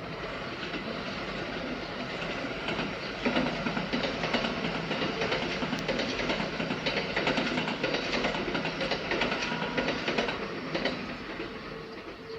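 A Kintetsu train passing, its wheels clacking over the rail joints; the sound builds, is loudest for most of the passage, and fades away near the end.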